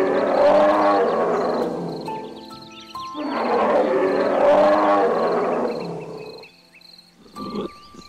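Elephant calling twice: two long calls of about three seconds each, with a short gap between them, over background music with sustained notes.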